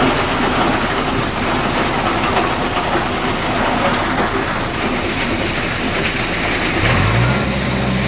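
Diesel engine of a JCB backhoe loader running with a heavy, irregular clattering rattle. About seven seconds in, a steady low engine drone with a clear pitch comes in.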